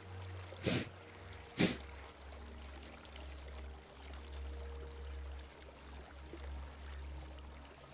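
Two sharp, forceful exhalations through the nose, Kapalabhati breath strokes, within the first two seconds, over a small stream flowing steadily.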